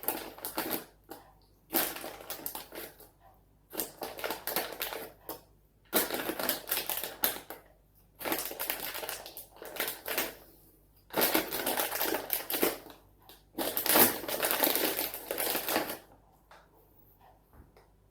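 Bursts of crunching, rustling noise, a second or two each with short gaps, stopping a couple of seconds before the end: a bag of Fridge Raiders chicken bites being handled and eaten close to the microphone.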